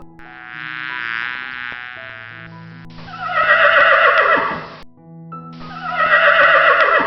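Horse whinnying three times: a long wavering whinny, then two louder neighs that each fall in pitch, over background music.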